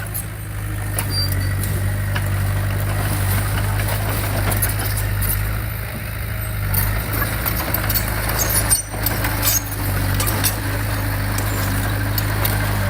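Heavy diesel engine of earthmoving equipment running steadily at a low, even pitch, with scattered metallic clinks and clanks over it.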